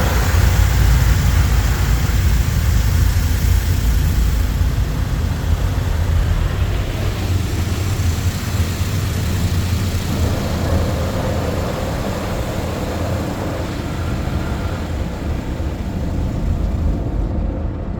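Mark VII ChoiceWash XT automatic car wash running its brush and high-pressure stage: rotating wash brushes and water spray working over the car in a loud, steady, deep wash of noise.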